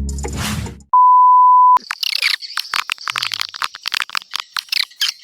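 Music cuts off within the first second, then a steady beep of about a second, then rapid, dense high twittering chirps of a swiftlet call sound, the kind used to lure edible-nest swiftlets.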